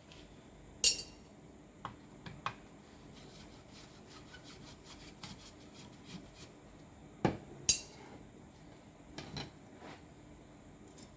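Metal parts and tools clinking and scraping as a demolition hammer is handled and worked on. There are a few separate clanks, the loudest about a second in and a close pair about seven seconds in, with lighter rubbing and ticks between.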